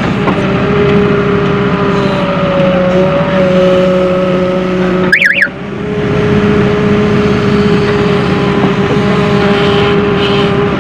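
Diesel engine of a Volvo EW130 wheeled excavator running steadily under load at working revs. About halfway through there is a brief high chirp as the sound drops out for a moment.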